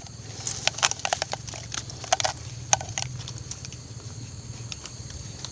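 Scattered light clicks and knocks, irregular and mostly in the first half, over a steady low hum.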